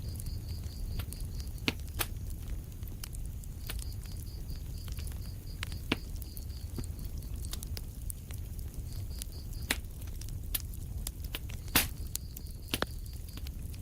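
Wood fire in a fireplace burning with a low rumble and irregular sharp crackles and pops, the loudest pop about twelve seconds in. A faint, high, rapidly pulsing chirp comes and goes behind it.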